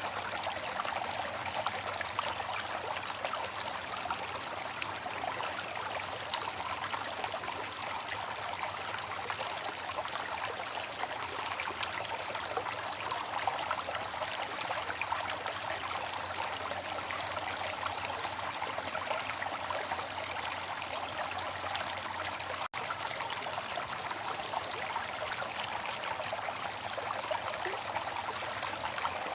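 Water fountain splashing and trickling in a steady, even rush, with a momentary break in the sound about three-quarters of the way through.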